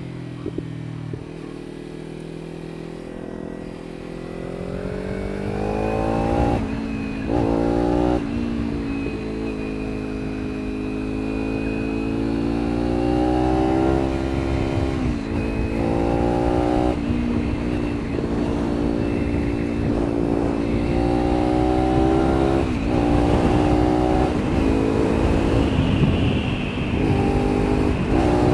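Honda CBR600F inline-four sport-bike engine accelerating under way. Its note climbs and falls back sharply again and again at the gear changes, and it grows louder after a few seconds.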